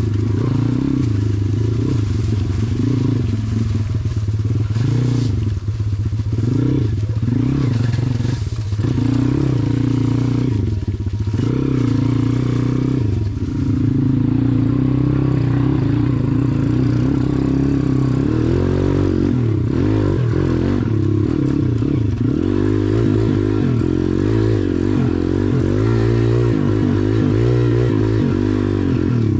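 SSR pit bike's single-cylinder four-stroke engine running hard, its pitch rising and falling over and over as the throttle is opened and closed.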